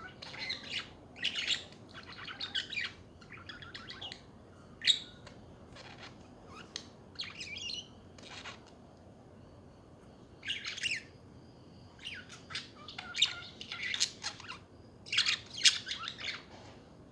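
Pet budgerigars chattering: bursts of quick chirps and warbles, with a pause of about two seconds in the middle.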